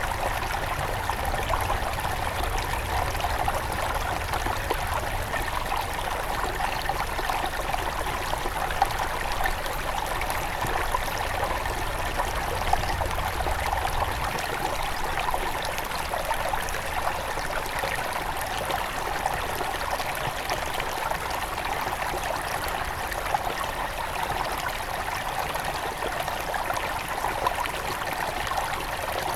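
Shallow headwater river flowing over stones, a steady babbling and trickling rush. A low rumble underneath drops away about halfway through.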